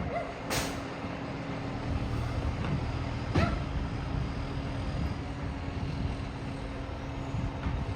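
Diesel engine of a garbage truck running steadily, a truck the title says has an exhaust leak. A short hiss comes about half a second in, and a brief click a little after three seconds.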